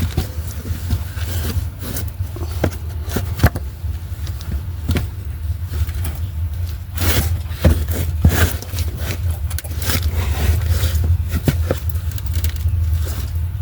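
Scattered knocks, clicks and scrapes of heavy metal parts being handled during transmission work, over a steady low rumble.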